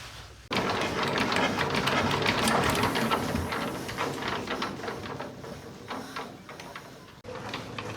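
A rapid mechanical rattle of many quick clicks that starts suddenly about half a second in and stops abruptly near the end.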